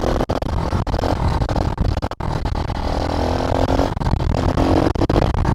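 SSR110 pit bike's small four-stroke single-cylinder engine running as the bike is ridden, with a dense low rumble under the engine note.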